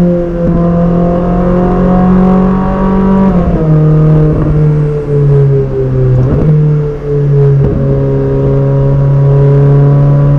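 Ferrari 458 Speciale's 4.5-litre naturally aspirated V8 pulling at moderate revs while driving, its exhaust note dropping in pitch about a third of the way in as it shifts up, then holding steady with a slight sag.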